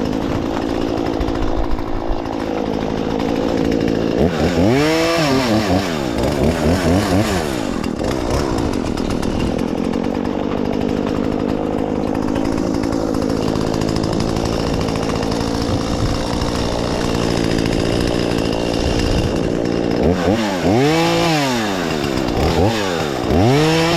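Gas chainsaw running, revved up and down a few times about five seconds in and again near the end, held at a steady speed in between.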